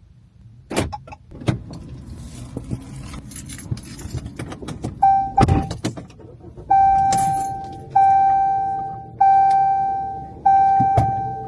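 Keys jangling with a few knocks and clicks, then, from about five seconds in, a car's warning chime dinging at an even pace, about once every 1.3 seconds, each ding fading out.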